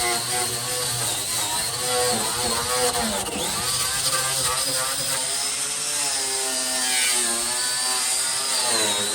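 A power tool's motor running continuously, its pitch wavering up and down as the load on it changes.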